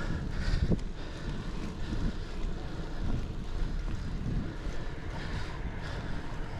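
Wind buffeting the microphone of a chest-mounted action camera on a moving bicycle: a steady, gusting low rumble.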